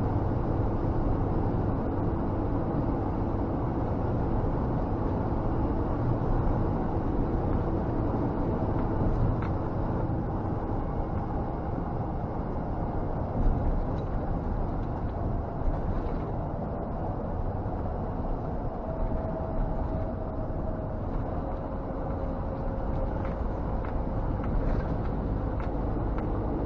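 Scania G460 truck's six-cylinder diesel engine and road noise inside the cab while driving: a steady low rumble with faint engine tones that slowly drift in pitch and a few light knocks.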